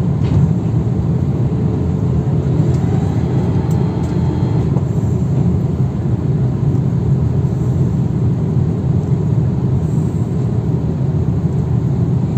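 Steady low rumble of a jet airliner's engines and airflow heard inside the passenger cabin during descent.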